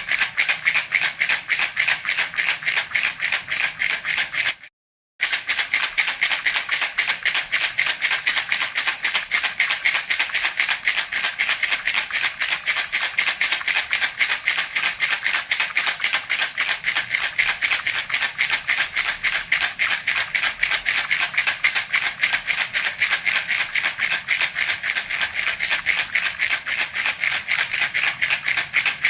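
A baby's rattle (jhunjhuna) shaken rapidly and steadily, its beads clattering in quick even strokes, with a brief half-second break about five seconds in.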